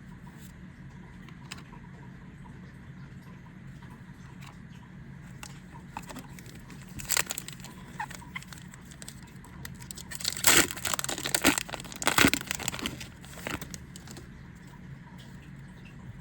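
Foil booster pack wrapper being crinkled and torn open: a short burst of crackling about seven seconds in, then a louder, longer run of crackling about ten seconds in. A steady low hum sits underneath.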